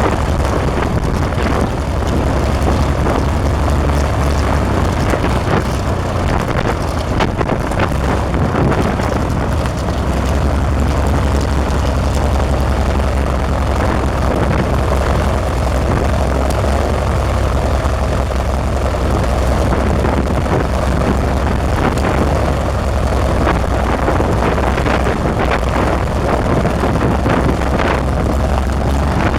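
Renault 6Q-10 inverted inline six-cylinder aero engine of a Nord 1002 running steadily with its propeller turning, on its first run.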